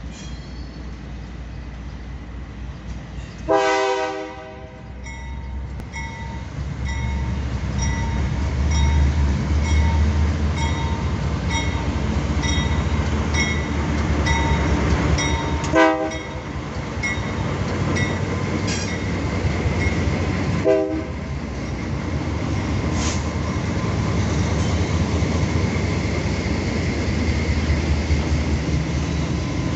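Freight train led by diesel-electric locomotives: a loud horn blast a few seconds in, the engines' low rumble swelling as they pass, and two short horn toots about halfway and two-thirds of the way through. Loaded coal hopper cars then roll by with steady wheel-on-rail rumble and clatter.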